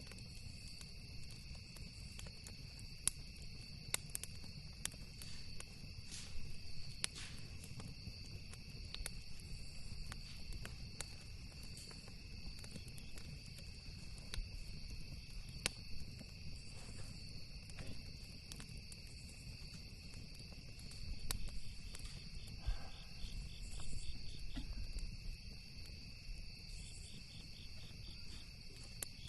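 Campfire crackling, with sharp irregular pops scattered throughout, over the steady high chirring of crickets. A low rumble beneath swells for a few seconds past the middle.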